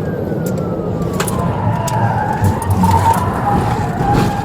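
Police cruiser driving at high speed, its engine and road noise loud and steady, with a wail siren sweeping slowly down in pitch and then holding and wavering.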